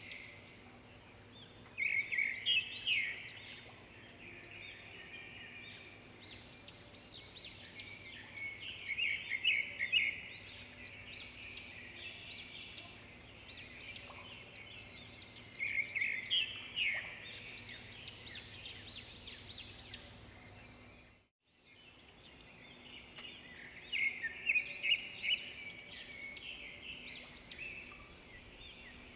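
Several songbirds chirping and singing over each other in short quick phrases, louder in bursts every several seconds. The sound cuts out briefly about 21 seconds in, then resumes.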